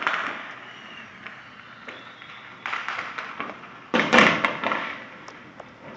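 Fireworks going off: a bang right at the start, a cluster of crackling pops about three seconds in, and the loudest bang about four seconds in, each one fading away.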